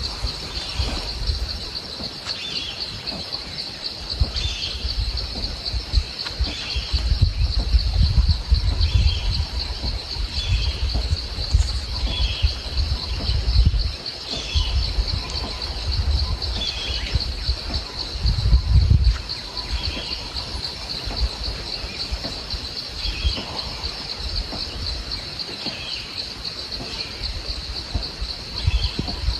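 A steady high-pitched insect chorus, with a bird giving the same short call about every second and a half over it. A low rumble comes and goes underneath.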